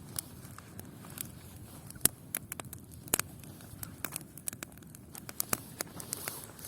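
Campfire of dry wood and paper crackling, with irregular sharp pops; two louder pops come about two and three seconds in.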